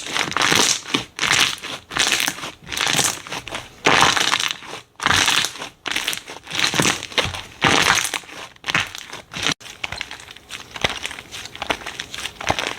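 Slime being squeezed and pressed by hand, giving a run of short, noisy, crinkly squeezes about once a second. The squeezes are softer from about nine seconds in.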